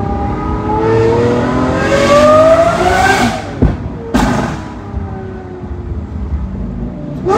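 A sports car's engine revving hard, its pitch climbing for about three seconds, then two sharp cracks about half a second apart, after which the engine drops to a lower, slowly falling note.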